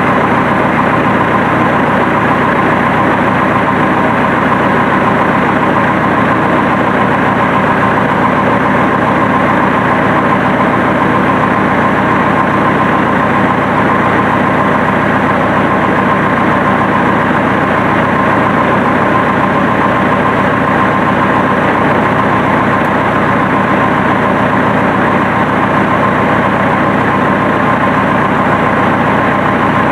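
1964 Massey Ferguson Super 90 diesel tractor engine running steadily at idle, with an even diesel clatter and no change in speed.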